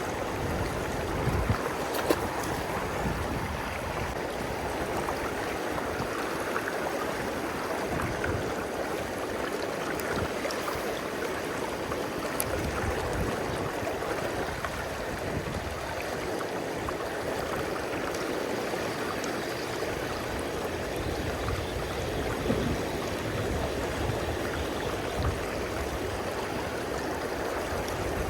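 River water flowing steadily, an even rushing with a couple of faint clicks.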